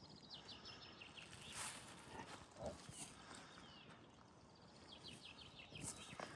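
Quiet outdoor background with a small bird singing a short run of rapid high notes twice, once near the start and once near the end. A few soft thuds come in between.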